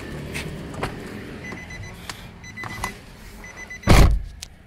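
Car's warning chime beeping in quick, even runs, with a few faint clicks. About four seconds in comes one loud, short thud.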